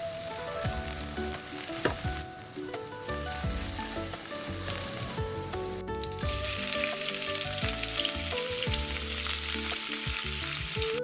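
Food frying in a pan, a steady sizzle that suddenly grows much louder and brighter about six seconds in.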